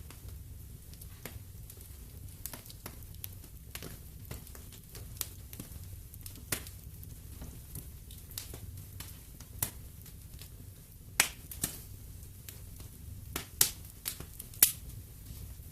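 Wood fire in a fireplace crackling, with irregular sharp pops and snaps over a low steady rumble of the flames; a few louder pops come near the end.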